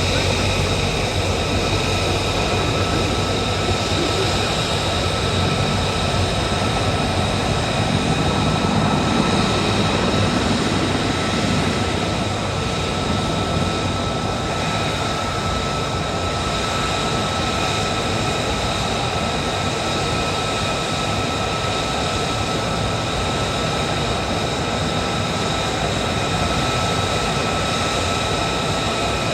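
A Marine Corps military aircraft's engines running loud and steady during a flying display, with a high, steady whine over the noise, swelling slightly a third of the way in and easing off a little after.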